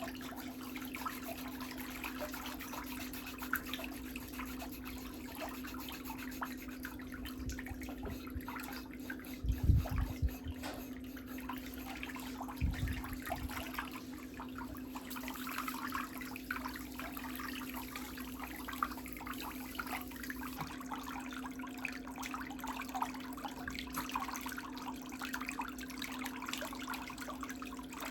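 Faint scraping and crackling of pedicure tools working on toenails over a steady low hum, with two dull thumps about ten and thirteen seconds in.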